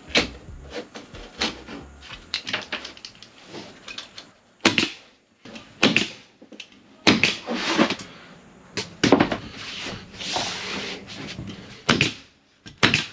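Hand carpentry inside a small wooden camper shell: sharp knocks and clicks at irregular intervals, with a few short scraping, hissing stretches, the longest near the end.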